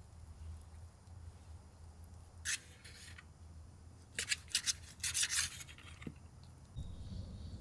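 A few short rasping, scraping strokes in bursts over a low steady hum, with a low rumble coming in near the end.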